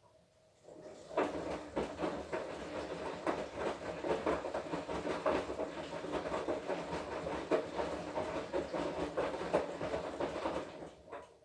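Washing machine drum turning during a wash cycle, the load of wet clothes tumbling and sloshing with a stream of irregular knocks and clacks. It starts about half a second in, runs for about ten seconds and stops near the end, the usual turn-and-pause rhythm of a wash.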